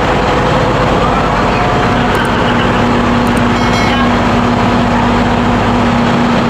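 Ship's engine-room machinery running loudly and steadily: a constant mechanical din with a steady hum, plus a few faint clicks near the middle.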